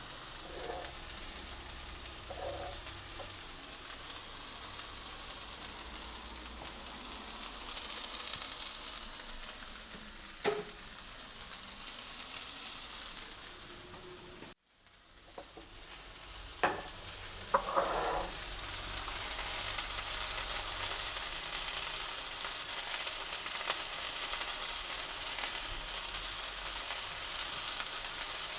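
Food sizzling and frying in a pan while it is stirred, with a few sharp utensil knocks against the pan. The sound cuts out briefly about halfway, then returns and sizzles louder over the last third.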